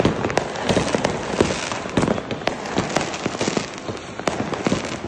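Many fireworks and firecrackers going off all around at once: a continuous crackling din with frequent sharp bangs at irregular moments, several a second at times.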